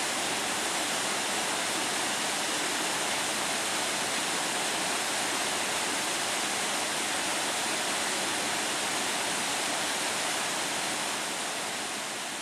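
Steady rush of running water, like a stream or small waterfall, fading near the end.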